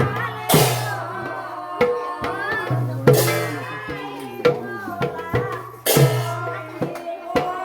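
Sylheti dhamail folk song: voices singing over drum and percussion accompaniment, with a heavy drum stroke about every two and a half to three seconds and lighter beats between.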